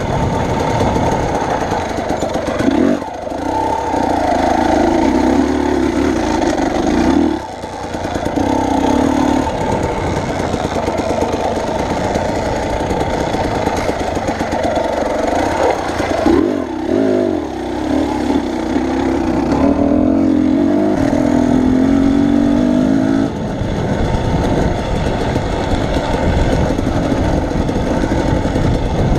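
Vehicle engine running under way, its pitch shifting up and down with speed and load, with two short drops in level, a few seconds and about seven seconds in.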